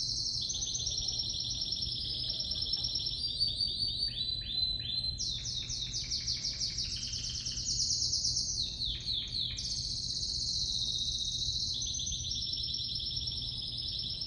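A Spanish Timbrado canary singing without pause. It runs fast trilled rolls that step down in pitch every second or so, and in the middle it switches to a series of spaced, sharply falling notes before going back to a fast trill.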